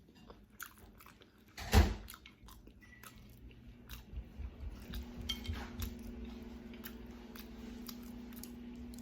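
A person chewing food close to the microphone, with small wet mouth clicks and one louder thump about two seconds in. A low steady hum comes in about five seconds in.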